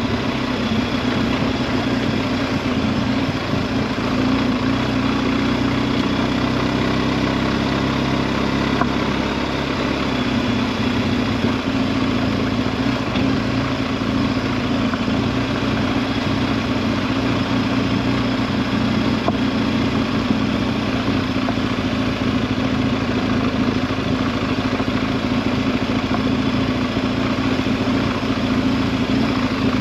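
BMW R 1250 GS Adventure's boxer-twin engine running steadily at low revs while the bike is ridden over a gravel trail, with tyre and gravel noise underneath.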